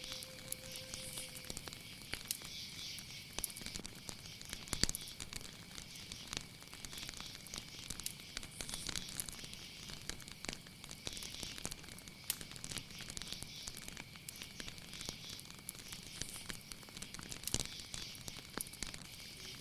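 Night insects: a steady high-pitched chirring drone with a second, hissing chorus that swells every two seconds or so, over scattered crackling clicks. A low steady whistled note sounds in the first second and a half.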